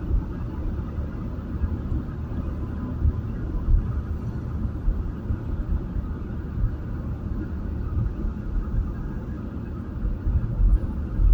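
Steady low road and engine rumble from inside a moving taxi's cabin, with small bumps in loudness.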